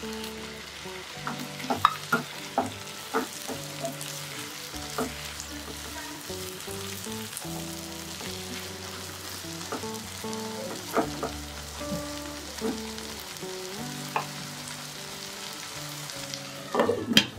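Tomato wedges and onions sizzling in hot oil in a non-stick frying pan, stirred with a plastic slotted spoon that scrapes and knocks against the pan now and then, most sharply near the end.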